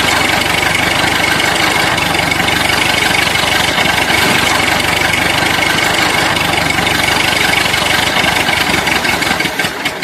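Tractor engine running loud and steady close to the microphone.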